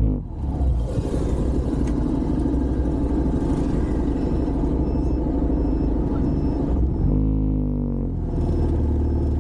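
150cc TVS motorbike being ridden: steady engine and road rumble, with the engine revving up about seven seconds in. A short high beep repeats about twice a second from about four seconds on.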